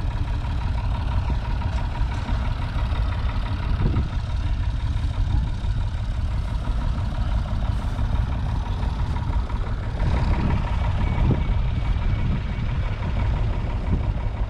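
UTB Universal 550 Super DTC tractor's 3.1-litre four-cylinder diesel engine idling steadily.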